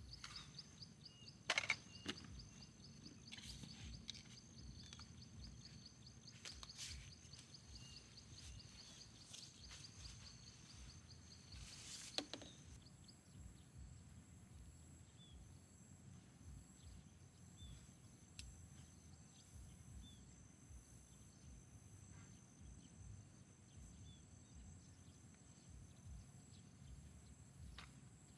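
Faint outdoor nature ambience: steady high trilling of insects, one fast-pulsing trill that stops about twelve seconds in, and a few sharp clicks or knocks, the loudest just before it stops.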